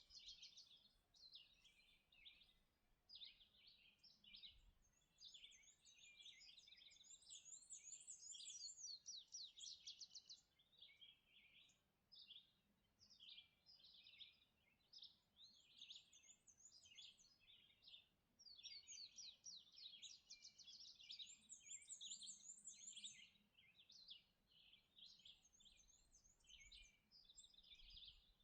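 Several songbirds singing together in a dawn chorus: faint, overlapping high chirps and quick trills, with now and then a short, very high buzzy trill repeated a few times.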